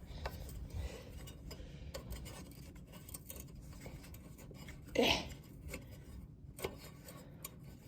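Light clicks and clinks of hand tools and metal parts being handled while a lawn mower is taken apart, with one short louder rustle about five seconds in.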